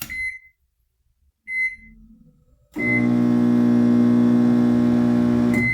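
Whirlpool microwave oven's keypad beeping twice, then the oven starting with a beep and running with a loud, steady buzzing hum for about three seconds before it beeps and stops. This is the noise of a microwave that does not heat, which the repairer takes for a shorted or damaged component.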